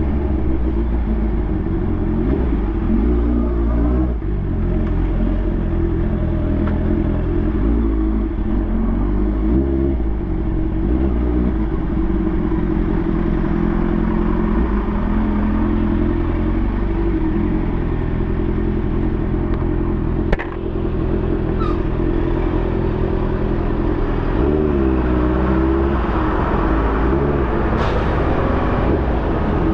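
2020 Honda CB650R's inline-four engine running through an SC Project exhaust while riding, its note rising and falling with the throttle. There is one brief sharp click about twenty seconds in.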